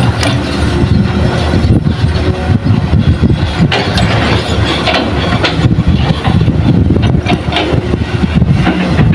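Hitachi excavator's diesel engine running steadily at working revs, with scattered knocks and rattles.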